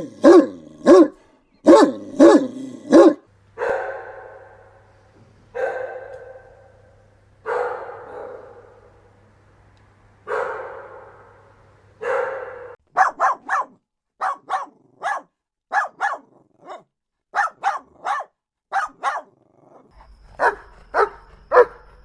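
Dogs barking in a series of recordings. First come quick sharp barks, then a few longer, harsher barks about two seconds apart, then rapid runs of short barks from about 13 seconds on.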